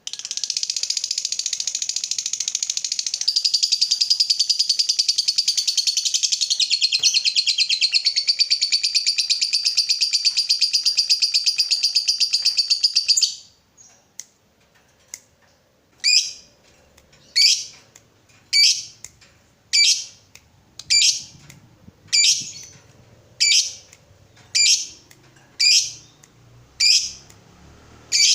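Lovebird giving a long 'ngekek', the unbroken rapid chattering trill prized in fighter lovebirds, for about thirteen seconds. After a short pause it gives a string of single sharp chirps, about one a second.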